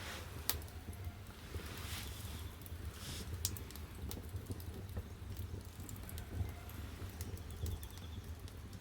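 Firewood burning in the firebox of a wood-fired bath heater: scattered crackles and pops over a steady low rumble of the fire.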